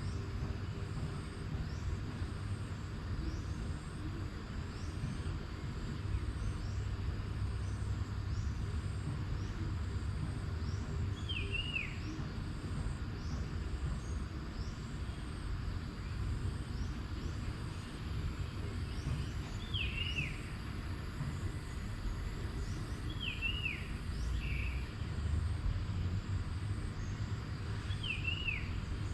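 Outdoor nature ambience: a steady low rumble underneath, a bird giving a short, sharply descending call four times, and faint, evenly repeating high insect chirps.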